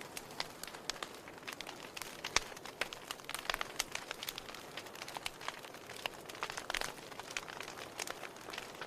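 Wood fire crackling in a fireplace: a steady soft hiss with irregular sharp pops and snaps, several a second.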